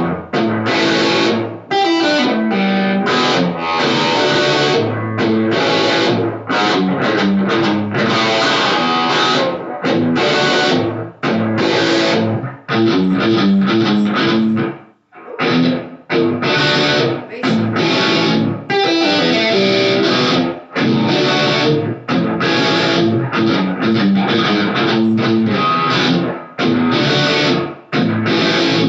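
Electric guitar played through a Spark modeling amp: rock riffs of chords and single notes, with short stops between phrases and a brief pause about halfway through.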